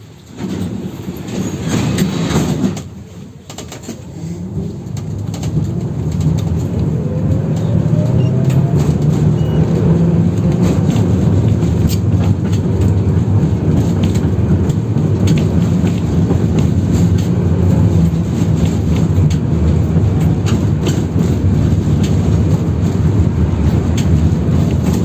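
Heard from inside a 71-608KM tram: a loud clatter in the first few seconds, then the tram pulls away with its motor whine rising and settles into a steady running rumble, with wheels clicking over the joints of badly worn rails.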